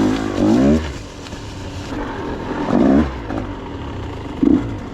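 KTM 125 XC single-cylinder two-stroke dirt bike engine idling, with a quick rising throttle blip just after the start and two shorter blips later.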